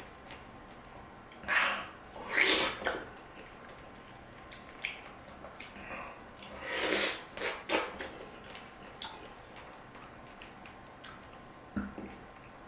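Close-up eating sounds of a person chewing soft, juicy dragon fruit: two louder bursts of mouth noise, about two seconds in and again about seven seconds in, with scattered small wet clicks between them.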